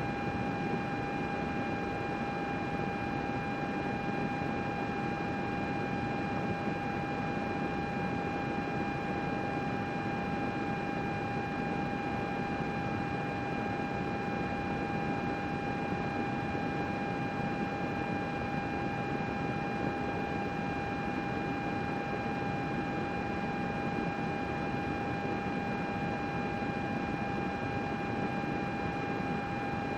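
Computer cooling fans running steadily: an even airy rush with a constant whine on top.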